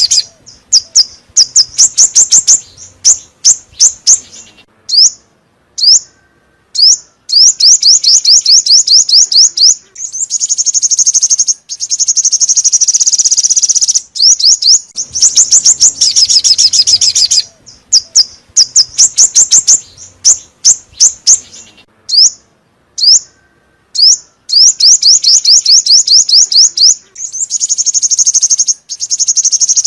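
Song of the bird sold in Vietnam as 'chim 5 màu' (five-coloured bird), a lure recording: quick series of thin, high sweeping notes and longer fast trills. The same sequence repeats about every fifteen seconds.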